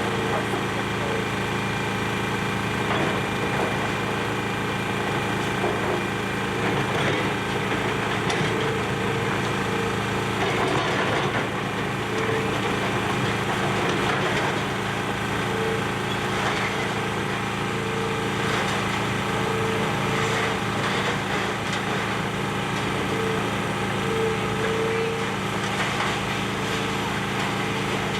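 Excavator's diesel engine running steadily, with scattered crunching and cracking of building debris.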